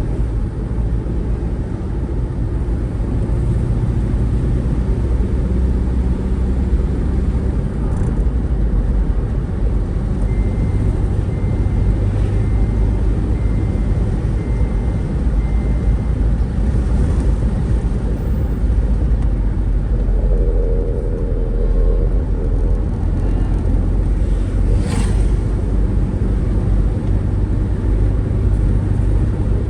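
Steady low rumble of a moving road vehicle, engine and road noise heard from on board. A faint run of short, evenly spaced high beeps sounds around the middle, and a single sharp click comes near the end.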